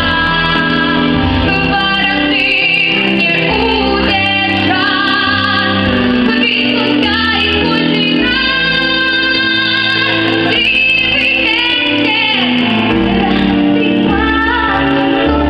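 A female voice singing a melodic song over instrumental accompaniment, with long held notes.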